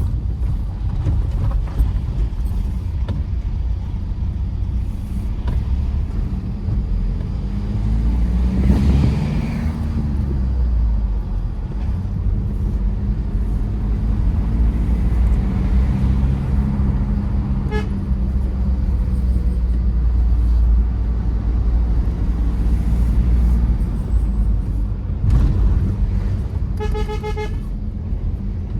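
Tata Safari Storme's diesel engine running with steady road rumble as the SUV drives, swelling louder about nine seconds in. A vehicle horn gives a short beep about two-thirds of the way through and a quick run of toots near the end.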